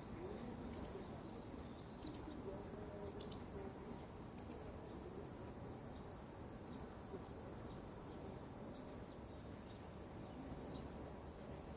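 Small birds giving short, high chirps here and there, the sharpest about two seconds in, over a faint low background rumble.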